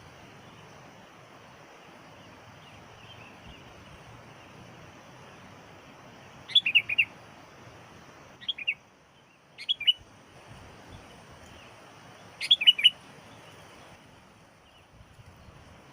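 Sooty-headed bulbul giving short bursts of quick, bubbling chirps, four bursts in all, the first about six and a half seconds in and the last near the two-thirds mark, over a faint steady hiss.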